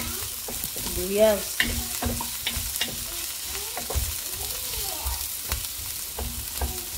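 Chopped red onion and garlic sizzling in hot oil in a nonstick pot, stirred with a wooden spatula that knocks and scrapes against the pot in irregular strokes.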